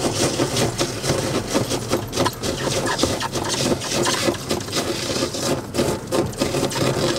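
Vehicle engine running at low speed under a dense, irregular creaking and rattling of the strapped-down load and body.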